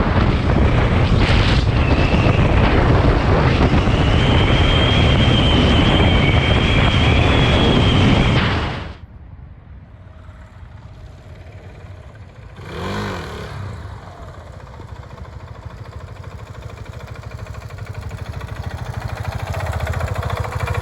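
Riding a KTM Duke 690, its single-cylinder engine underneath loud wind rush over the microphone. About nine seconds in this cuts off abruptly to a much quieter, steady low engine rumble, with a brief swell near thirteen seconds before it slowly builds again.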